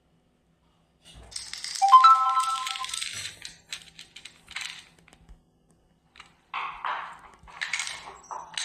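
Electronic sound effects from a toy steam engine: bursts of steam hiss, with a short whistle-like tone partway through the first burst, then further broken hissing and clicks.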